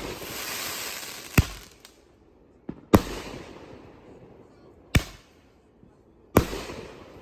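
Madox Patriot Base 500 g firework cake firing. Four sharp bangs come about one and a half seconds apart, with a smaller pop just before the second, and each bang trails off in a fading noisy tail.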